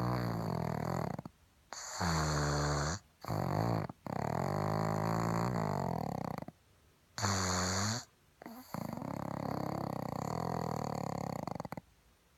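A pug snoring: a run of long, pitched snores with short pauses between them, some lasting up to about three seconds.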